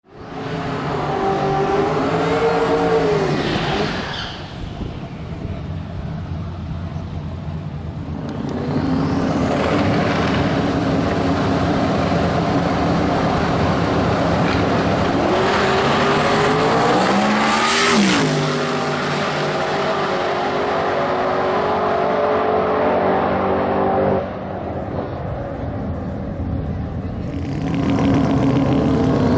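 Twin-turbo V8 drag racing engine of a Holden Torana revving and running hard. Its pitch climbs steeply to a peak about 18 seconds in and then drops away quickly, as at a high-speed pass. The level changes abruptly near 8 and 24 seconds.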